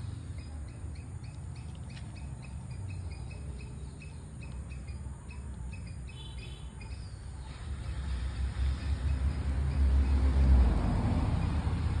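A bird calling in a steady run of short chirps, about two or three a second, which stops about two-thirds of the way through. From about halfway a low rumble builds, loudest near the end.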